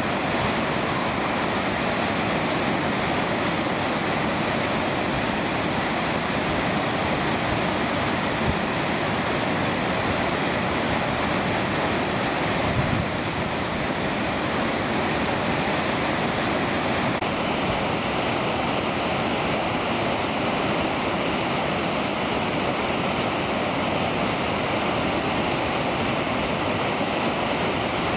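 Mountain river rushing steadily over rocks, a dense unbroken roar of water, its tone shifting slightly about two-thirds of the way through.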